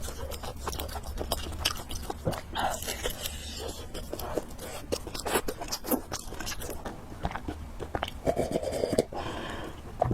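Close-up eating sounds of fried noodles and pork: a steady run of wet chewing, biting and mouth clicks.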